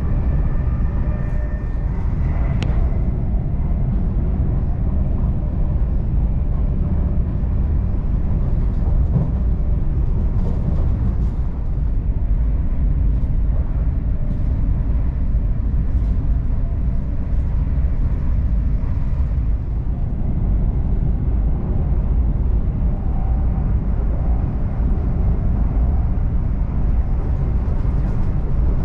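Steady low rumble of a Class 745 Stadler FLIRT electric train running at speed, heard from inside the passenger carriage. A faint whine fades out in the first second or so, and there is a single light tick a couple of seconds in.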